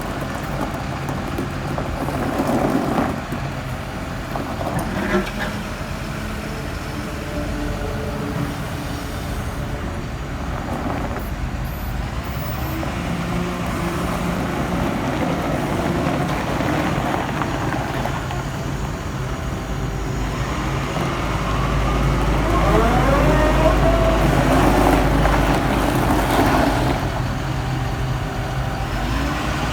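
Doosan DX140W-5 wheeled excavator's DL06 diesel engine running steadily. It grows louder from about two-thirds of the way through, with whines that rise and fall, before settling again near the end.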